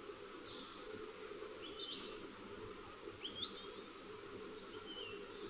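Faint bird chirps, a handful of short rising and falling calls, over a low steady background noise.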